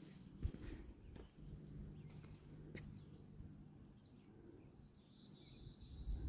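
Faint bird calls: a quick run of high chirps in the first two seconds and a short warbling call near the end, with a few soft clicks.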